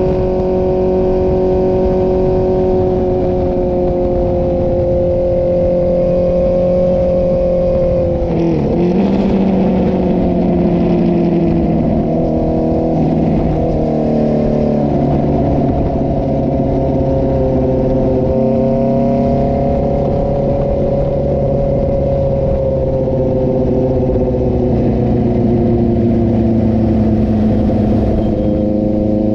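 Inline-four sport motorcycle exhaust running continuously under way. The pitch holds steady, dips sharply about eight seconds in, steps through several changes a few seconds later as the gears change, then slowly rises and falls with the throttle.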